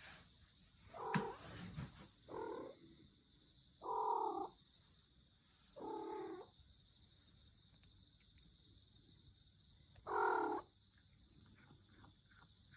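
A domestic cat making its odd, unusual-sounding cry: five short calls of about half a second each, four in quick succession and the last after a pause of several seconds.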